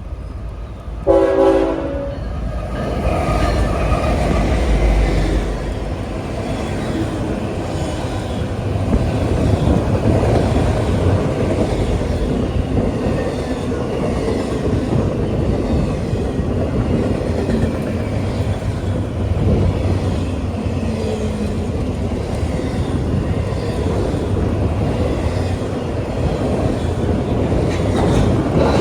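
Diesel freight train horn sounding one short blast about a second in, then the Norfolk Southern freight train passing close by with a steady rumble of locomotives and rail cars and clattering wheels on the rails.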